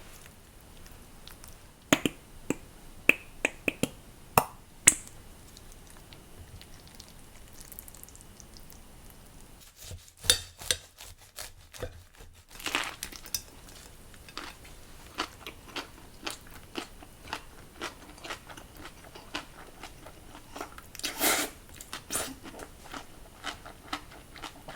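A crunchy sandwich being bitten into and chewed: a run of crisp crunches, a dense cluster about ten seconds in and many more through the second half.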